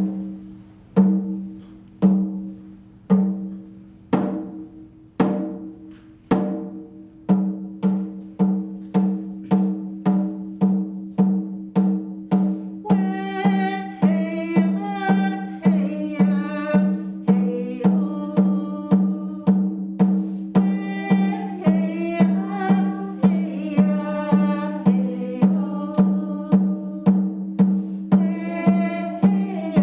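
A hand drum beaten in a steady rhythm, about one stroke a second at first, quickening to about two a second after several seconds. About halfway through, a voice begins singing a traveling song over the drum.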